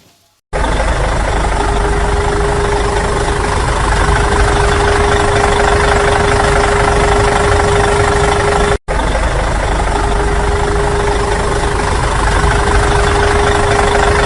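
Engine idling sound effect, steady and loud with a constant hum. It starts abruptly, cuts out for an instant about nine seconds in, then resumes unchanged.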